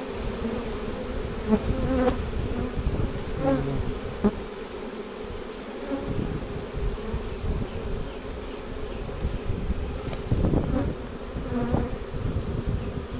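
Honey bee swarm buzzing: a steady, dense drone of many bees in flight around the hive box, with a few short knocks from handling.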